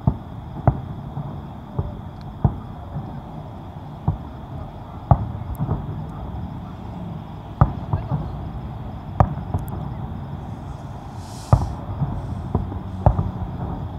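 Aerial fireworks shells bursting: about ten sharp booms at uneven intervals, one to two and a half seconds apart, over steady low background noise.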